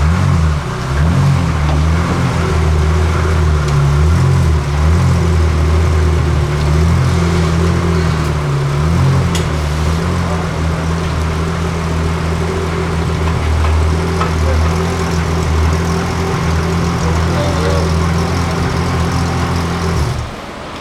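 Pagani Zonda F's 7.3-litre Mercedes-AMG V12 running at low revs, with small throttle blips that waver the pitch over the first ten seconds, then a steady idle that cuts off suddenly near the end.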